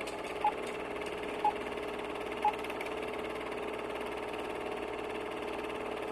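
Three short beeps, one a second, over a steady hum.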